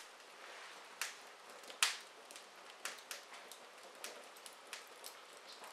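Wood fire crackling in an open fireplace: irregular sharp pops and snaps over a soft steady hiss, the loudest pops about a second and two seconds in.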